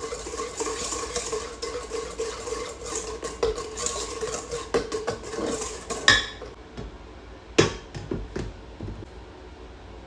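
Mixing in a kitchen bowl: rapid clinks of a utensil against the bowl over a steady hum for about six seconds. Then it stops and a few sharp knocks of utensils on dishes follow.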